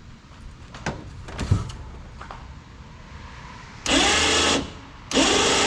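Electric motor of a power canoe loader running in two bursts, a short one and then a longer one about half a second later, its whine sagging in pitch as it takes up the load. A few knocks come before it.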